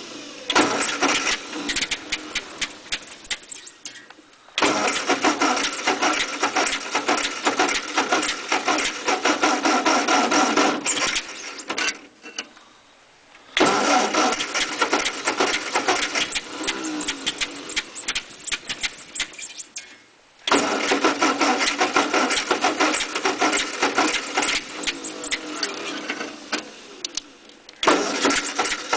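1948 Ford 8N tractor engine being cranked over by its 6-volt starter in repeated runs of several seconds with brief pauses, turning over but not catching. The owner concludes the engine is flooded.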